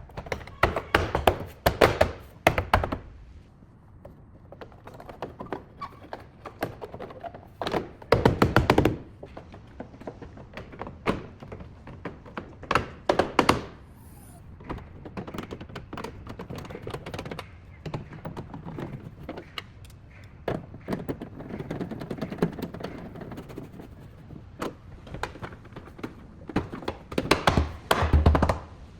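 Knocks and thuds from hands-on work on a car body. The strikes come in quick clusters separated by pauses, with scattered single knocks between.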